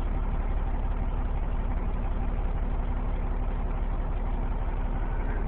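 Fire engine's diesel engine running at a steady idle: a constant low hum with no revving.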